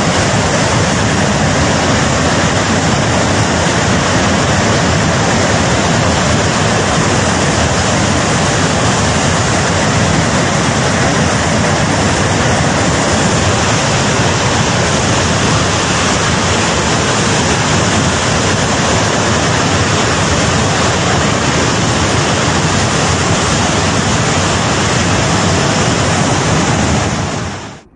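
Loud, steady rush of a flash-flood torrent, a dense, even noise with no breaks, which cuts off suddenly near the end.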